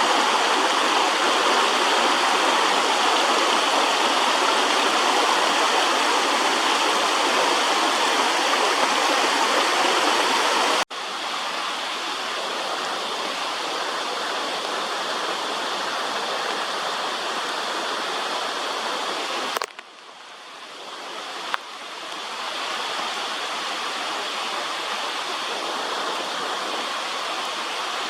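Waterfall rushing steadily. There are two abrupt cuts between takes. The first take is the loudest, the next is a little quieter, and after the second cut the rush dips and swells back up over a couple of seconds.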